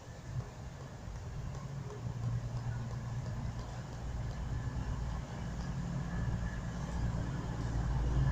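Diesel engines of a CrossCountry Class 220 Voyager multiple unit running at the platform, a steady low rumble that grows gradually louder.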